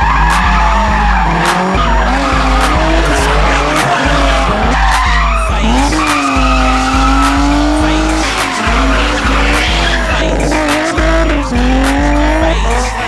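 Drift cars sliding with engines revving up and down and tyres squealing, over a hip-hop beat with a heavy, evenly repeating bass.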